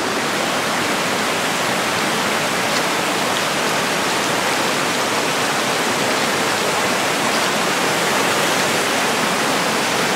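Creek water rushing in a steady, unbroken rush.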